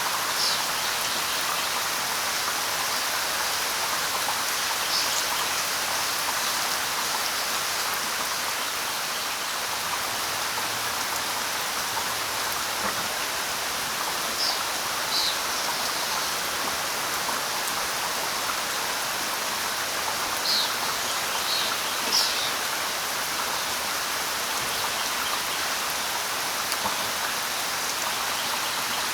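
Steady light rain falling on leaves, an even hiss, with a few brief high chirps from birds scattered through it, most of them in a cluster about two thirds of the way in.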